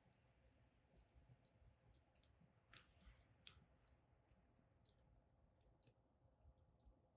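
Firewood burning in a fire-pit stand, crackling faintly with scattered small snaps and two sharper pops about three and three and a half seconds in.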